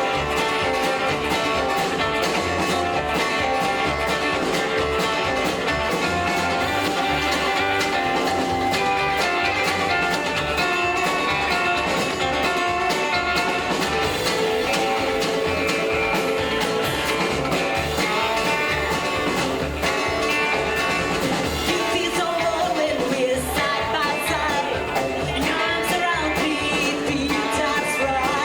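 Live rockabilly band playing, with guitar over a steady bass beat and singing.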